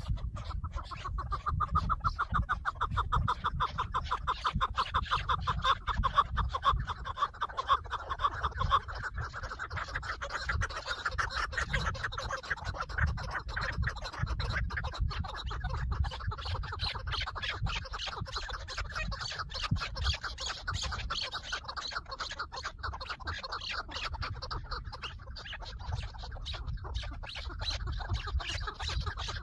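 Chukar partridge calling: a long, fast run of clucking notes, loudest for the first nine seconds or so, then fainter calls carrying on, over a low rumble.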